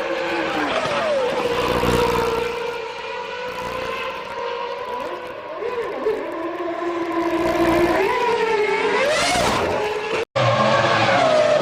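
1999 Formula One cars' V10 engines running, their pitch mostly held steady with dips, then rising as they rev near the end; the sound cuts off abruptly about ten seconds in and resumes with engine sound again.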